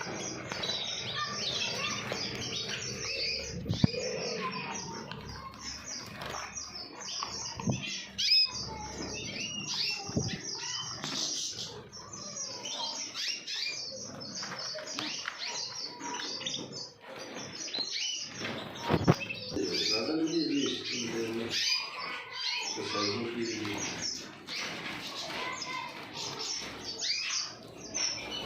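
Opal canaries chirping and twittering in quick, overlapping short calls, with wing flutters and a few sharp knocks against the cage.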